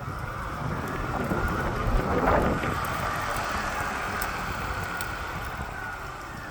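A motor running with a rough whine that swells to its loudest about two seconds in and eases off toward the end. It is a faulty motor that the owner reports as making a crunching noise and sagging in power.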